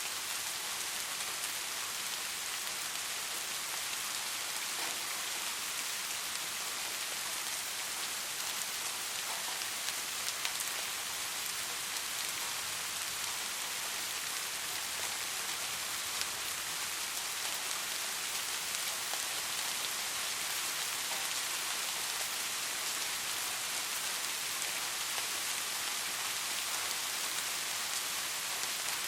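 Steady soft rain falling, an even hiss with scattered drop patter and no thunder.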